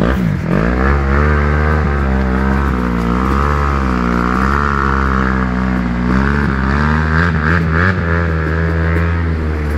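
Off-road motorcycle engine revving, its pitch rising and falling again and again as the throttle is worked.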